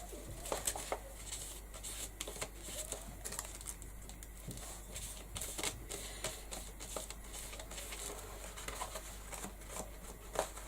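Paintbrush dabbing and stroking Mod Podge over torn tissue paper on a journal page: faint, irregular little taps, scratches and paper rustles.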